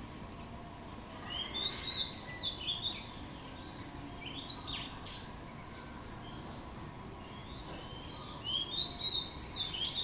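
A bird singing quick, high chirps and twitters with fast rising and falling notes, in two bursts: one of several seconds starting about a second in, and another near the end.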